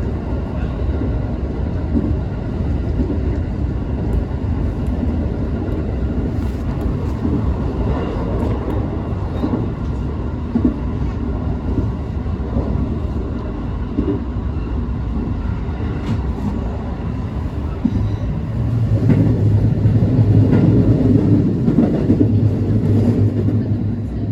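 221 series electric train running at speed on the JR Nara Line, heard from inside the car: steady wheel-on-rail rumble with a few sharp clicks over the rail. About 18 seconds in it grows louder, with a strong low hum.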